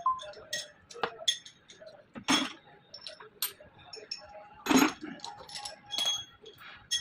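Small metal tools and parts clinking and tapping against each other in quick, irregular strikes with a short ring, and two louder knocks about two seconds and five seconds in.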